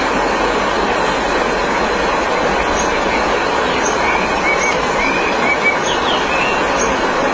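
Mountain stream water rushing steadily over rocks. A few short high chirps from a bird come in about halfway through.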